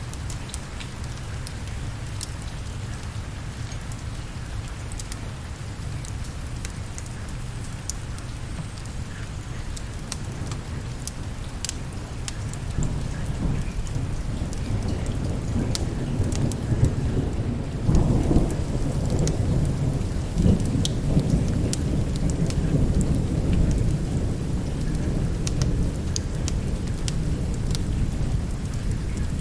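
Steady rain with scattered sharp ticks, and a long, deep roll of thunder that builds from about halfway through, is loudest about two-thirds of the way in, then rumbles on.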